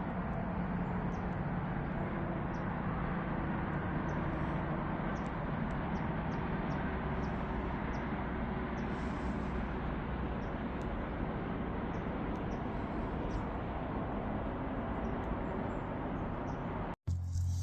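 Steady outdoor background rush with short, faint high-pitched chirps scattered through it; it cuts off abruptly near the end.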